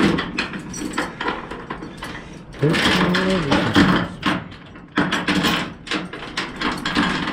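Steel load-securement chain clinking and rattling irregularly as it is handled, with a short voice-like hum about three seconds in.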